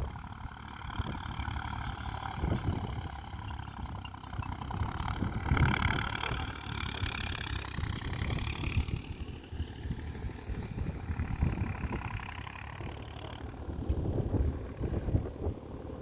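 Tractor engine running, getting louder and fuller about six seconds in, then settling back.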